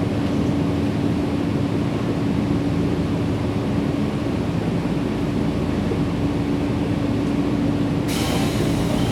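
Nankai 7100-series electric train standing at a station, its onboard equipment giving a steady hum. A short hiss sets in about eight seconds in.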